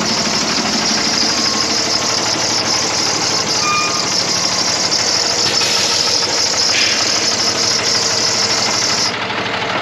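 Cummins 6.7-litre diesel engine of a Freightliner M2-106 truck idling with a steady clatter, under a loud hiss that cuts off suddenly near the end.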